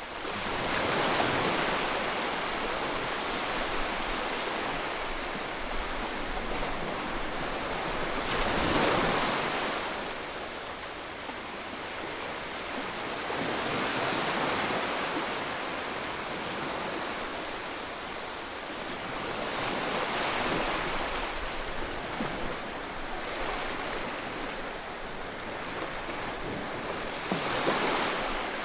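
Sea waves breaking over and over, with a steady wash of surf between breakers. It swells roughly every six seconds, and the breakers about a second in, around nine seconds and near the end are the loudest.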